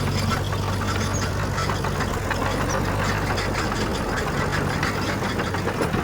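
Diesel engine of heavy earthmoving machinery running, a low steady drone under a rough, rattling noise.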